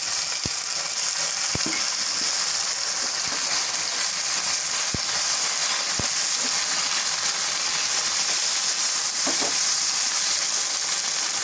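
Capsicum and onion stir-frying with sauces in a pan over a high flame: a steady sizzle, with a few light knocks of the spoon against the pan during the first half.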